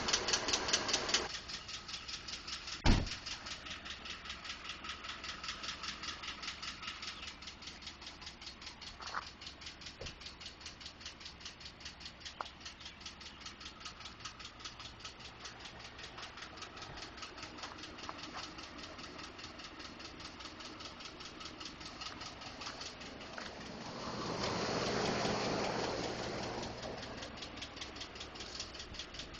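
A 2012 Ford F-150's 5.0 V8 idling with a rapid, even ticking knock, a noise the owner has been told is normal engine noise from the injectors or fuel pump. One sharp knock stands out about three seconds in, and the noise swells briefly a few seconds before the end.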